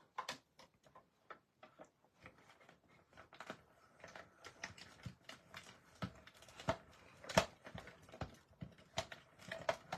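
Hand-cranked die-cutting machine running cutting plates and dies through its rollers: irregular clicks and knocks, with a louder knock about two-thirds of the way in.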